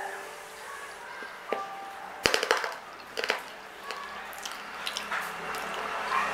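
Close-up chewing of panipuri: crisp puri shells crunching in the mouth, with a quick cluster of crunches a little after two seconds in and another just past three seconds.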